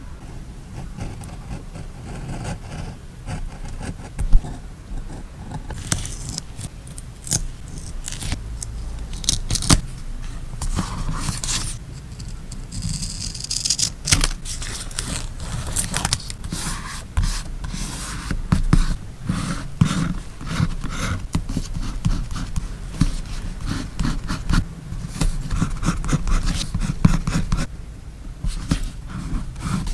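Close-miked paper-crafting sounds: scissors snipping and paper being handled and scraped, a busy run of small clicks and short scratches.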